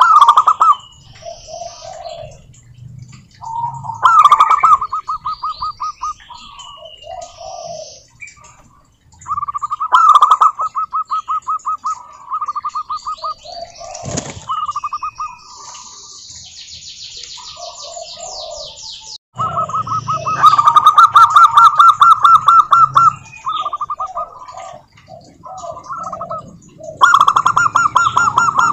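Zebra doves cooing: about five phrases of fast, staccato rolling coos, one after another with short gaps, the longest about 19 to 23 seconds in. Other small birds chirp higher and fainter between the phrases.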